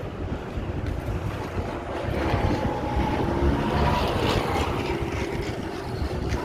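Street traffic, with a motor vehicle passing close by, its engine swelling about two seconds in and fading a few seconds later, and wind rumbling on the microphone.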